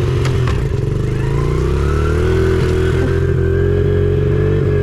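Honda CRF70 pit bike's small four-stroke single-cylinder engine running close up as it is ridden: the pitch dips briefly, then climbs over about a second as the throttle opens and holds steady. A couple of short clicks sound near the start.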